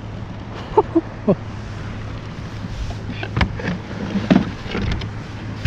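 Handling noise in a kayak: a couple of short grunts about a second in, then several sharp knocks and bumps against the kayak between about three and five seconds in, over a steady low hum.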